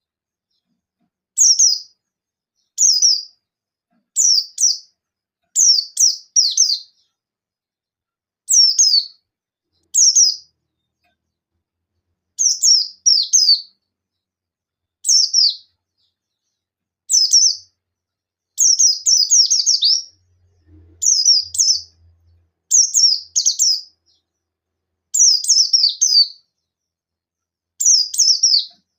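Buxtoni white-eye (pleci buxtoni, a Zosterops white-eye) giving short, sharp, high calls in clusters of one to three quick downslurred notes, repeated about every one and a half seconds and coming faster around twenty seconds in. These are the 'nembak' (shooting) challenge calls, given to call out a rival.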